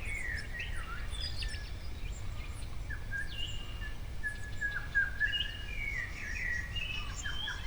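Several small birds calling close by: a continuous mix of short chirps and brief high whistles, several overlapping at once, over a steady low rumble.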